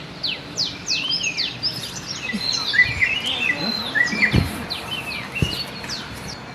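Several wild birds chirping and calling together in quick, repeated downward-sweeping chirps and short whistles, with two dull low thuds about four seconds in and again a second later.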